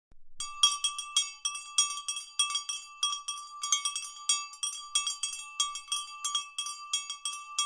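Small metal bells jingling in a quick, uneven rhythm, the same few ringing pitches struck several times a second.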